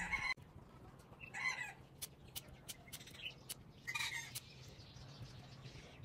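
Faint calls of a bird, twice, with a quick run of sharp clicks between them.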